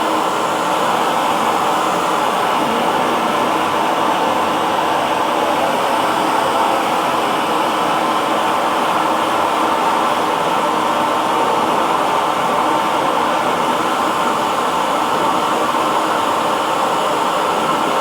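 Hair dryer running continuously at a steady speed, an even whooshing blow of air with a faint motor hum and no change in pitch or level.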